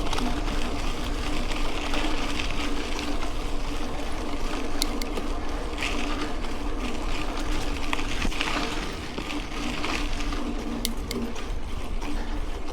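Mountain bike rolling along a dirt road: steady tyre noise on the loose surface, with a low hum and scattered clicks and rattles from the bike.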